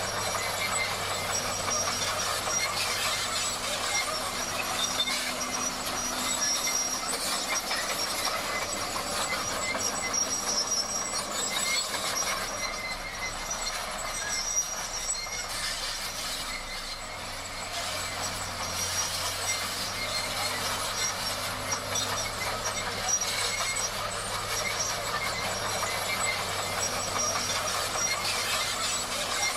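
Komatsu D58 crawler bulldozer at work: its diesel engine and steel tracks make a steady mechanical noise that eases off slightly about two-thirds of the way through.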